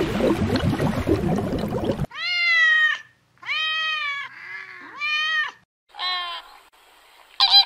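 Domestic cat meowing, four drawn-out meows, each rising and then falling. They follow about two seconds of rough, noisy scuffling, and a short harsh call starts near the end.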